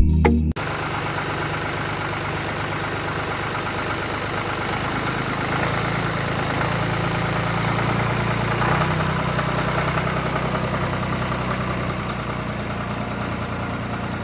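Small engine running steadily, its pitch rising a little twice midway and easing back down near the end.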